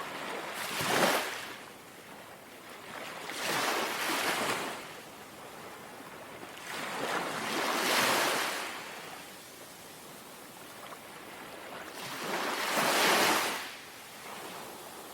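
Small, gentle sea waves lapping on the shore, washing in and drawing back four times, each wash swelling up and fading over a couple of seconds.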